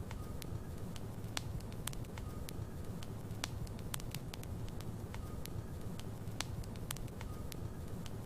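Wood logs burning in a fireplace: irregular sharp crackles and pops, several a second, over a steady low rumble of the flames.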